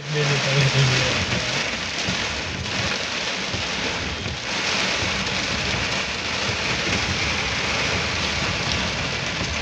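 Heavy rain beating on a car's windshield and body, heard from inside the cabin, with tyres splashing through standing water on a flooded road. A steady hiss, a little louder in the first second.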